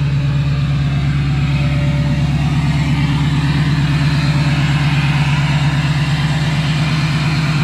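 2006 LBZ Duramax 6.6-litre V8 turbo-diesel running steadily at its cold high idle, just above 1,000 RPM, through a 5-inch straight pipe. It is pretty loud. This is the warm-up after a cold start made without glow plugs.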